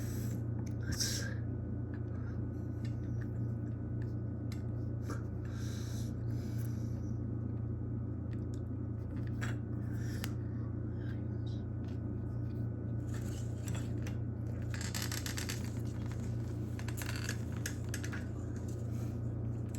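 Steady low hum throughout, with scattered light scrapes and clicks of small objects being handled.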